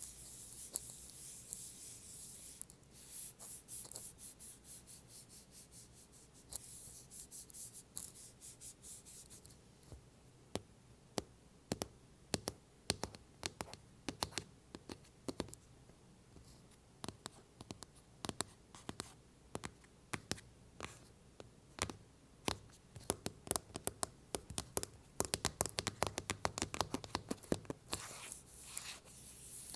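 Fingernails scratching an iPhone case in quick strokes, then tapping on it in sharp clicks that come faster and closer together, with scratching again near the end.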